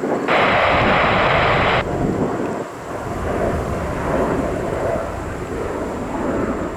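Jet airliner's engines making a loud, steady low rumble, with a sharp-edged burst of hiss lasting about a second and a half near the start.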